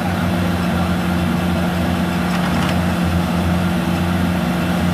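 Heavy machine engine, a rice combine harvester's, running steadily at a constant speed with an even low drone.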